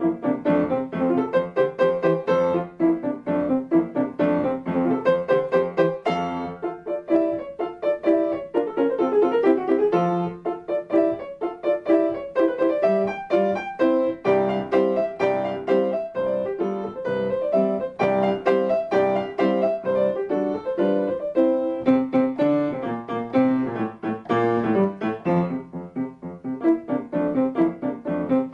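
Piano music: a steady run of many quick notes over sustained lower chords.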